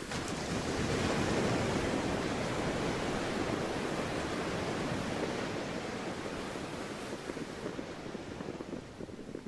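Sea waves washing in: one surge of surf begins suddenly, is loudest about a second and a half in, then slowly ebbs away.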